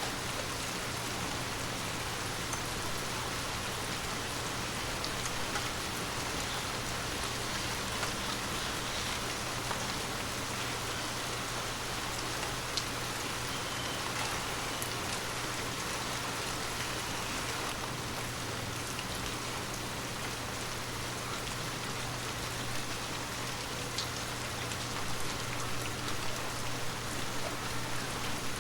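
Steady heavy rain falling on hard ground, a dense even hiss with single drops ticking through it. A faint steady low hum lies beneath.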